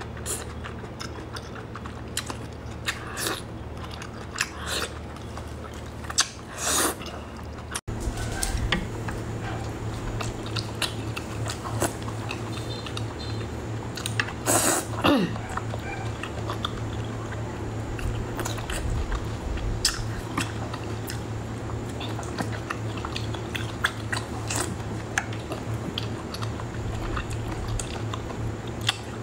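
Close-up chewing and biting of braised octopus tentacles: irregular sharp mouth clicks and smacks.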